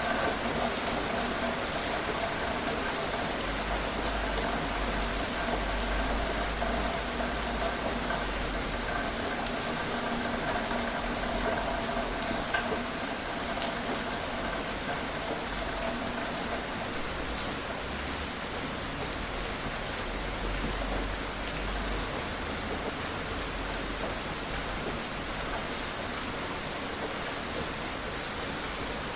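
Gentle steady rain falling on surfaces, with the odd distinct drop. A faint steady hum lies under it and fades out a little past the middle.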